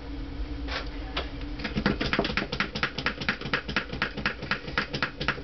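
A fast, even run of sharp clicks, about six a second, starting nearly two seconds in after two separate clicks.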